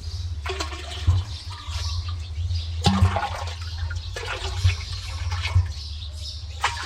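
Water splashing and gushing in irregular bursts over a continuous low rumble, with a few sharper splashes.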